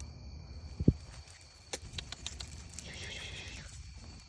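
A sharp thump, then a few light clicks and rustles of handling, and a faint high-pitched kitten mew about three seconds in.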